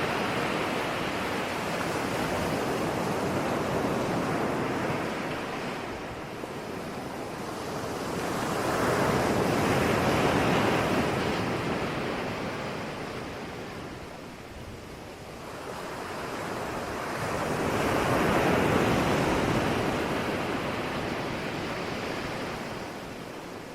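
Ocean surf breaking and washing on a shore, the noise swelling and falling away in slow cycles, with the waves peaking roughly every eight seconds.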